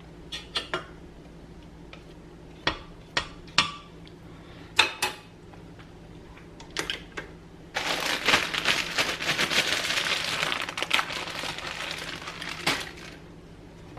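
A plastic bag of mini marshmallows being handled and emptied into a pot: scattered light clicks and rustles, then about five seconds of steady crinkling from a little past halfway.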